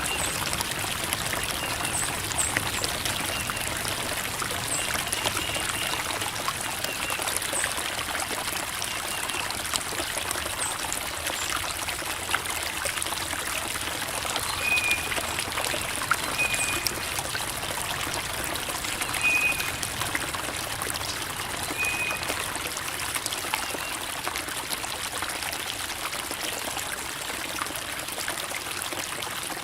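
Creek water trickling and babbling steadily, full of small splashes. A few short high chirps sound at intervals in the second half.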